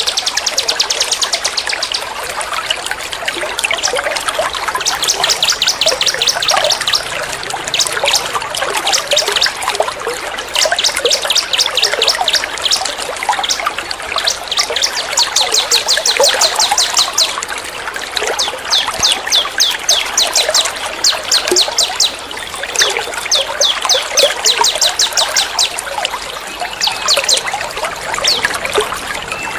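Recorded songbird trills in the rapid, rattling 'tembak' style, in bursts of one to two seconds that come every few seconds, over a steady trickle of running water. This is a bird-tutoring (masteran) recording made to teach a caged songbird these calls.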